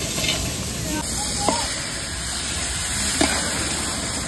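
Onion-and-spice masala sizzling in hot oil in a steel pot, with a few sharp clicks of a steel spatula against the pot.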